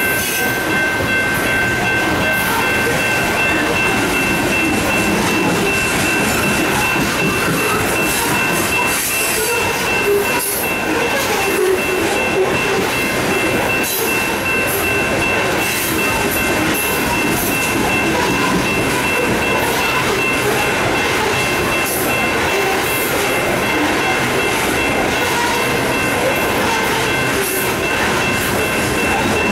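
A long string of coal hopper cars rolling past on the rails: a steady noise of wheels on rail and rattling car bodies, with a few thin, steady high-pitched whines held under it.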